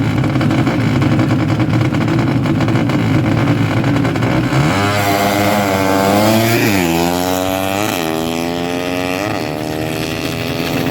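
Honda Karisma underbone motorcycle's small single-cylinder four-stroke engine running steadily, then accelerating hard: a rising whine that dips at gear changes about seven, eight and nine seconds in and climbs again after each.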